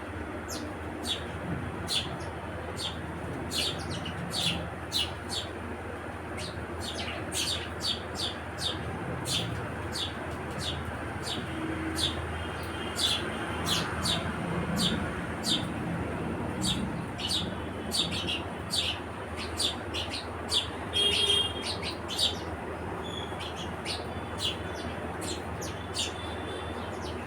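House sparrows chirping: a long run of short, sharp chirps, about one or two a second, with a busier flurry about three quarters of the way through. A steady low background hum runs underneath.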